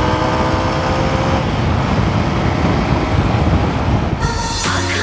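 Motorcycle engine running at a steady speed while riding, under heavy low rumbling noise typical of wind on the microphone. Background music cuts in about four seconds in.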